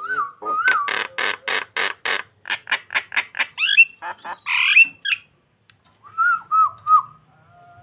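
Jalak (starling) calling: a rapid run of harsh chattering notes, about five a second, then several rising whistled notes and, later, a few short looping whistles.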